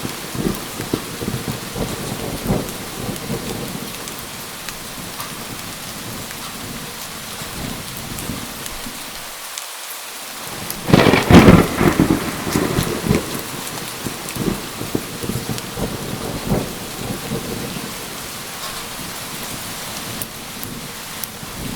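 Steady heavy rain with a thunderclap about halfway through, a loud crackling crash that rumbles off over a couple of seconds.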